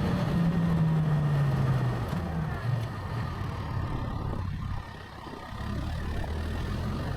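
Motorcycle engine running during a ride. Its pitch falls gently over the first two seconds as the engine eases off, and the sound is quieter for a moment around five seconds in before the engine picks up again.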